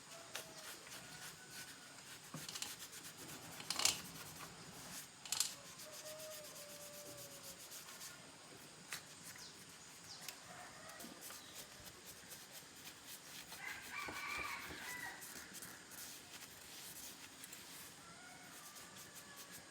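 A rooster crowing once, about three-quarters of the way through, over faint background noise, with a couple of sharp clicks near the start.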